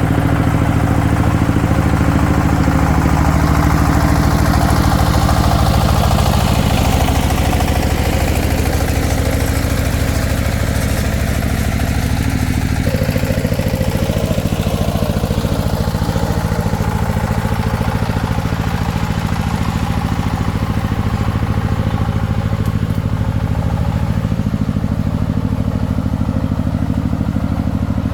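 Single-cylinder diesel engine of a công nông farm vehicle running steadily with an even, rapid chug.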